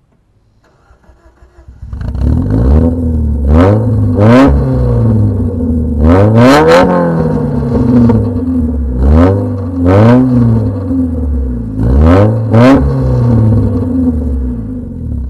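Mazda Miata's four-cylinder engine with the muffler pipe disconnected: the starter cranks for about a second and a half, the engine catches, and it is revved repeatedly, mostly in pairs of quick blips, loud and raw, settling toward idle near the end.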